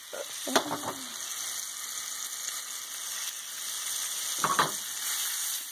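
Wet pieces of young chicken-of-the-woods mushroom frying in melted butter in a pan, a steady sizzle that grows a little louder.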